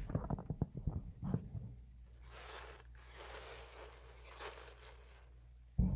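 HVAC tape being pulled and torn off its roll, a crackling, zipper-like rasp of quick strokes in the first second and a half, then only a faint hiss.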